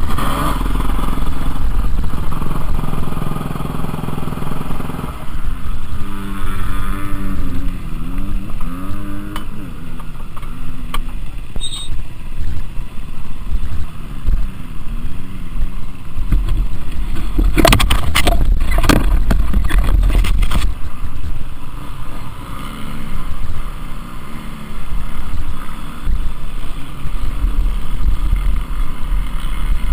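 Motocross bikes' engines running and revving, the pitch rising and falling as they go round. A cluster of sharp knocks comes a little past the middle.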